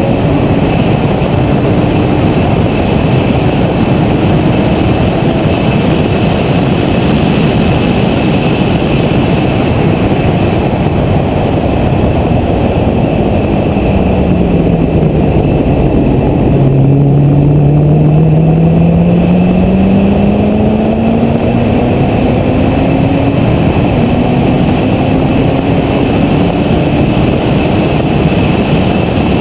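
Chevrolet Corvette ZR1's supercharged V8 running hard at speed. The revs drop away toward the middle, bottom out, then build steadily again to the end, under a heavy rush of wind and road noise.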